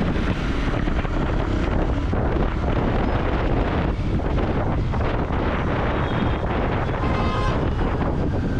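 Royal Enfield Continental GT 650's parallel-twin engine running on the move through its exhaust, with wind buffeting the microphone. A short high tone sounds about seven seconds in.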